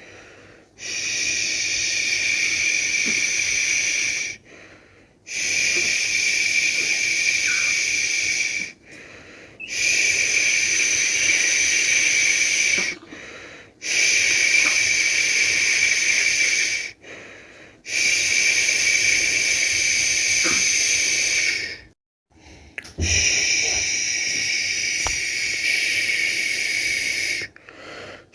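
A person shushing, a long steady 'shhh' held for about three to four seconds at a time and broken by short pauses for breath, about seven times over. It is a soothing shush used to lull a baby to sleep.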